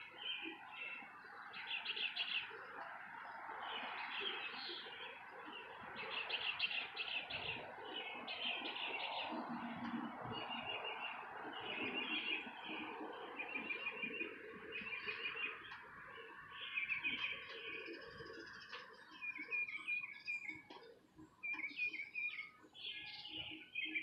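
Small songbirds chirping, with many short, fast trilled series of high notes, one after another. Under them runs a steady background rush that fades out about three-quarters of the way through.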